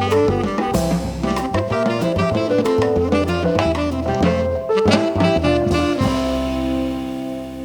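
Live jazz band of saxophone, guitar, keyboard, bass and drums playing, ending about six seconds in on a held final chord that rings on and slowly fades.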